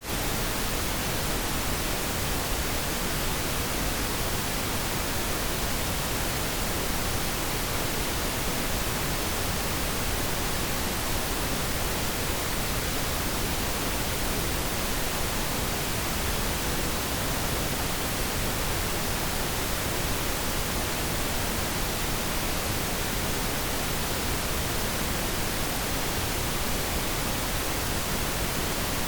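Pink noise: a steady, even hiss spread over all frequencies, without pitch or rhythm and unchanging in level.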